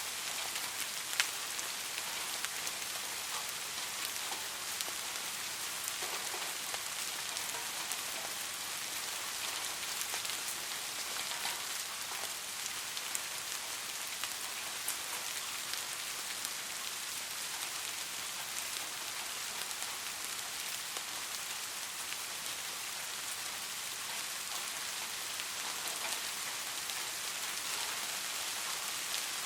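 Steady rain falling on a street, an even hiss with scattered individual drops ticking; one sharper drop hit about a second in.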